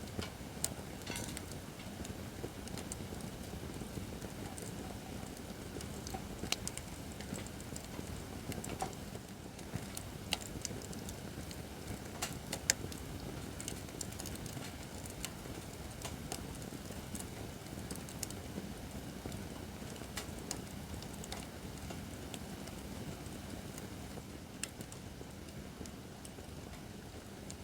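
Acacia firewood burning in a campfire stand: a steady low rush with scattered sharp crackles and pops at irregular times.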